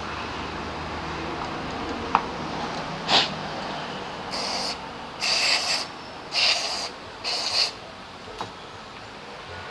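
Aerosol brake cleaner sprayed in four short hissing bursts of about half a second each, cleaning the brake caliper. Before them come some rubbing and a couple of sharp clicks.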